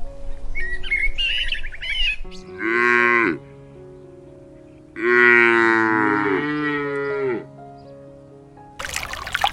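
A cow mooing twice, first a short moo, then a longer one lasting over two seconds, over a soft steady music bed. Birds chirp just before the moos, and running water starts near the end.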